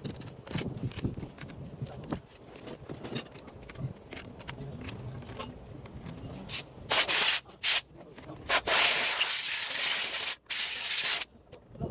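Light clinks and knocks of handled metal parts, then a loud hissing spray: three short bursts followed by two long blasts of a second or more each.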